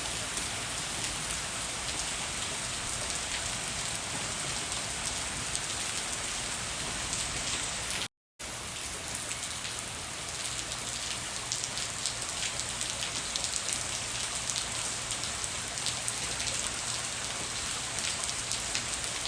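Steady heavy rain falling, a dense even hiss with the fine ticks of individual drops. The sound cuts out completely for a moment about eight seconds in.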